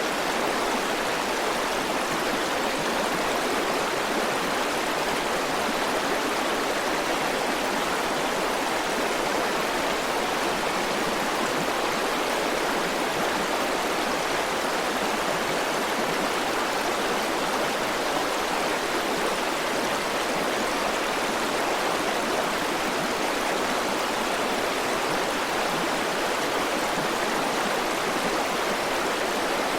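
River water rushing in a steady, even stream, with no changes or separate splashes.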